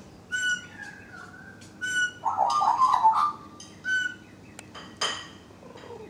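Birds calling: short, even whistled notes repeated a few times, with a louder, rougher call a little after two seconds and a brief call near five seconds.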